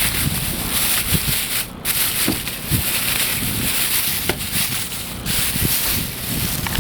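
Steady rustling noise with a few faint clicks.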